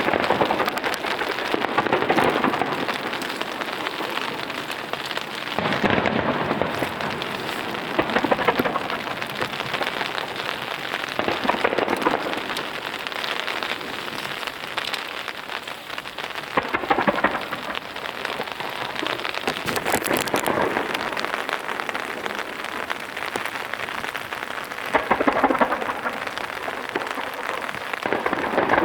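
Steady rain noise, with louder booms and crackle from a starmine fireworks barrage swelling up every few seconds.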